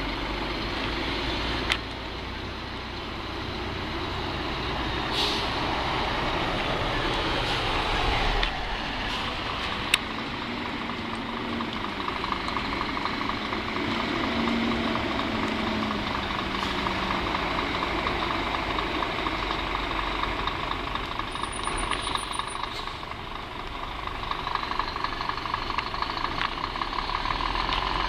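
Scania truck's diesel engine running and pulling away, its note rising and falling in the middle and settling into a steady fast throb near the end, with a couple of sharp clicks along the way.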